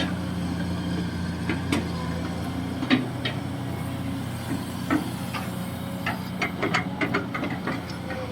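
Kobelco SK200-6 Super hydraulic excavator running steadily while digging a ditch, its diesel engine droning, with scattered sharp knocks and clicks of the working machine, a quick cluster of them about six to seven and a half seconds in.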